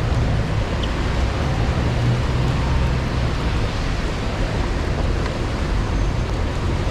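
Heavy, pouring rain heard through a body-worn action camera's microphone, a steady noise with a low rumble underneath.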